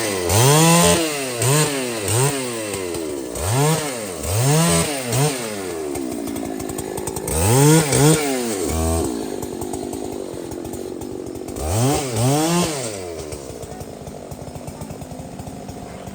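Two-stroke chainsaw revved in quick throttle blips, each rising and falling in pitch: about five in a row, then two more singly, settling to a lower, quieter idle near the end.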